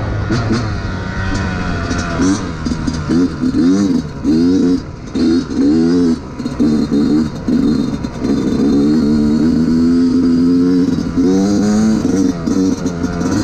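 Yamaha YZ125 two-stroke dirt bike engine being ridden, revving up and down over and over as the throttle is worked, its pitch climbing and falling in quick swells. It holds at a steady high pitch for a few seconds past the middle, then swells up and down again near the end.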